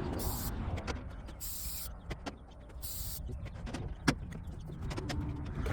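Hand work on air-line fittings and a new semi-truck air dryer unit: scattered metal clicks and knocks, with a sharper knock about four seconds in and three short hisses in the first three seconds, over a low rumble.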